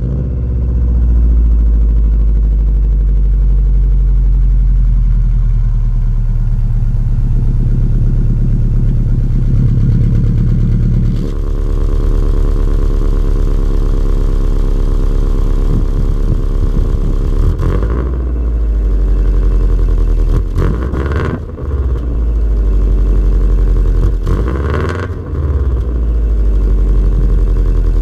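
Exhaust of a 2005 Subaru WRX's turbocharged flat-four, fitted with a 3-inch turbo-back system, high-flow cat, resonator delete and Varex valved muffler, idling with a deep steady burble. In the second half it is blipped a few times, with short rises and falls in pitch.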